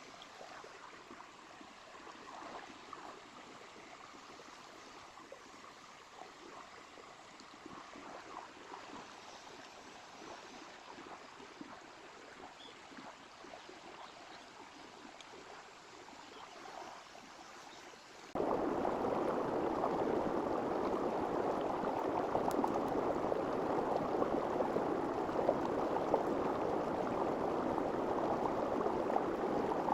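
Water of a small river flowing over stones, a steady rush that is faint at first and turns abruptly much louder about two-thirds of the way through.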